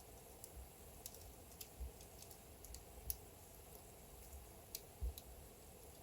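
Wood fire burning in a fireplace, crackling quietly: irregular small pops and snaps over a faint steady hiss, with a few soft low thumps.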